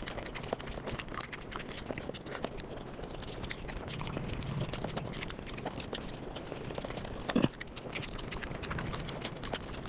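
Mukbang eating sounds played at five times speed: a fast, dense patter of chewing and mouth-smacking clicks, with one louder sudden sound about seven seconds in.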